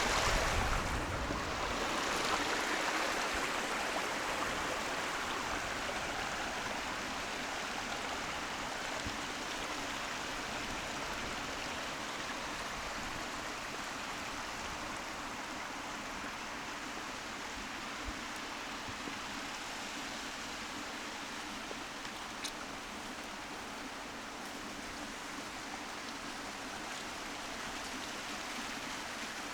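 Steady rushing of a small hill stream (burn), a little louder with a low rumble in the first couple of seconds, then even.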